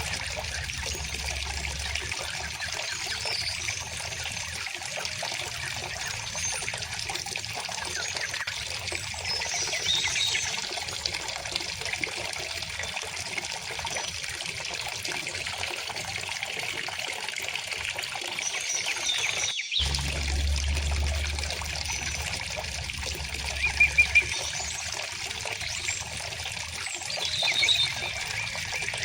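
River water flowing steadily, with birds chirping now and then; louder bird calls come about 24 seconds in and again near the end. The sound cuts out for an instant about two-thirds of the way through.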